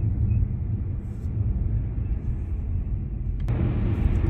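Steady low rumble of a car driving, heard from inside the cabin. About three and a half seconds in there is a short click and the noise turns brighter.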